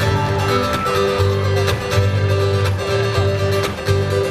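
Live band music: strummed guitar over a repeating bass line and a steady drum beat.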